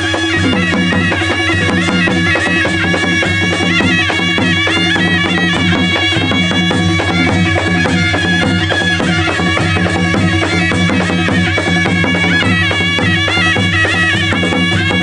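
Naumati baja band playing: a shrill double-reed pipe carries a wavering melody over steady drumming.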